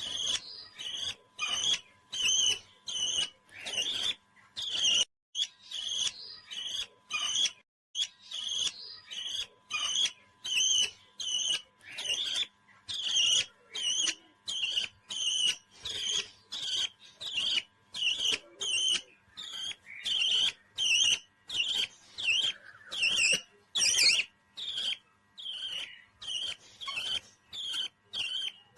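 Pet parrot calling in a long run of short, high chirps, about two a second, evenly spaced.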